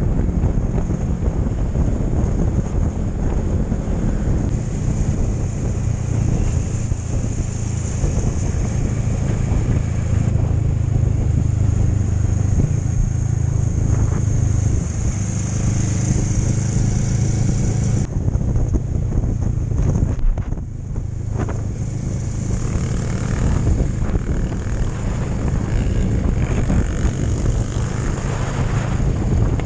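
Motorcycle engine running steadily while riding, a continuous low hum.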